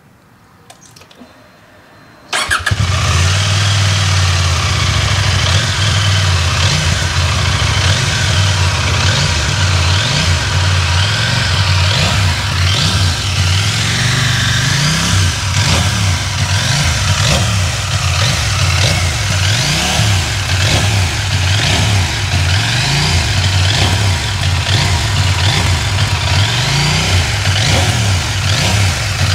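2023 CFMOTO 800MT Explore Edition's 799 cc parallel-twin engine started about two seconds in, then running loudly through its stock exhaust at idle with occasional small rises in revs.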